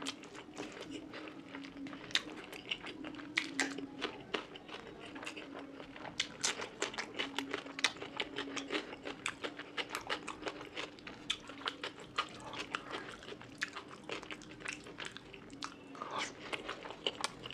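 Close-miked chewing of a mouthful of rice and fish curry: a stream of rapid wet mouth clicks and smacks, busiest in the middle.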